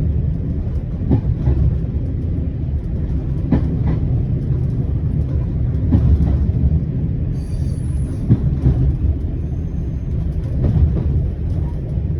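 Single-car diesel railcar running downhill, heard from the cab, gathering speed: a steady low rumble with occasional clicks of the wheels over the rail joints. A brief high-pitched squeal comes about eight seconds in.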